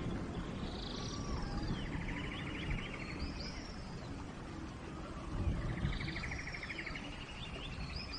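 Steady rain hiss with a songbird singing the same phrase twice, a rapid trill topped by high swooping notes, about a second in and again around five seconds.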